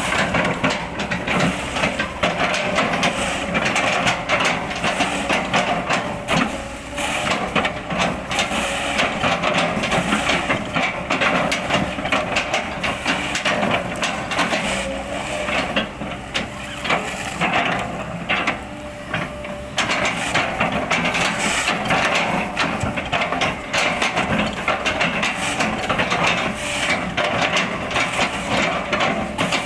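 Kobelco excavator chipping an oil palm trunk: a dense, continuous crackle and crunch of fibrous wood being split and crushed, over the running diesel engine, easing off briefly a little past the middle.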